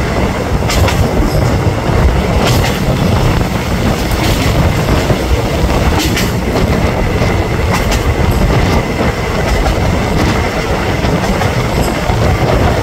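Passenger train running along the track, heard from inside a carriage: a steady loud rumble of wheels on rails, with a few sharp clacks as the wheels pass rail joints.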